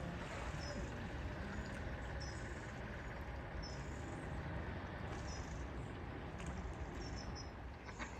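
A small bird repeats a short high chirp about once a second over a steady low rumble, with a few sharp clicks near the end.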